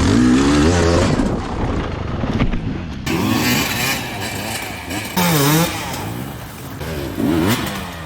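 Dirt bike engines revving up and dropping back, the pitch rising and falling several times, with abrupt jumps between short clips.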